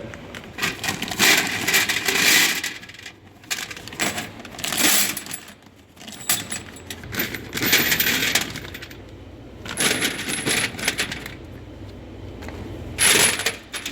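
Handfuls of loose steel bolts and nuts being dropped and sorted into a bolt bin, clattering in about five separate bursts, some with a brief metallic ring.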